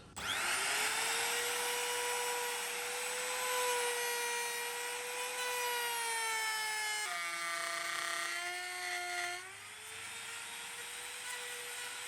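Electric wood router starting up with a rising whine, then running at speed with a high, steady pitch. About seven seconds in the pitch drops for roughly two and a half seconds, as when the bit is loaded in a groove cut, then climbs back.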